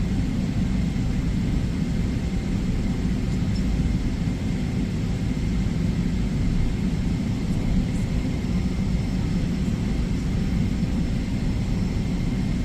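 Steady low rumble of jet airliner cabin noise inside a Boeing 777-300ER in flight, with a faint steady high tone.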